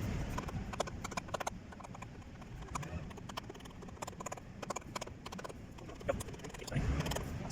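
Irregular light clicks and knocks of hand tools at work, many short taps at uneven spacing, during the replacement of a truck's rear crankshaft oil seal.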